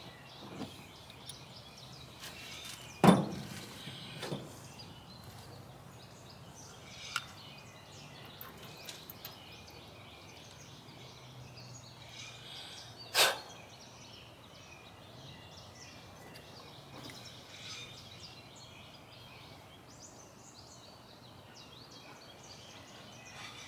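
Occasional knocks and clinks of hand tools and metal parts as a riding mower is taken apart, the loudest about three seconds in. About thirteen seconds in comes a short hissing burst, over steady outdoor background noise.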